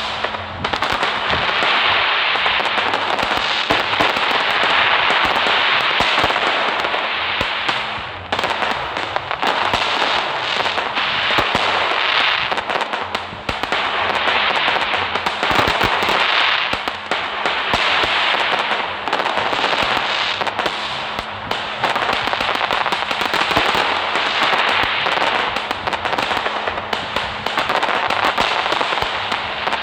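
Fireworks crackling and hissing without a break: a dense run of small pops over a steady hiss.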